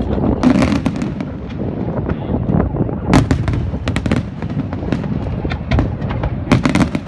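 Aerial fireworks bursting one after another: a continuous low rumble of booms broken by sharp cracks, with the loudest rapid cluster of cracks near the end.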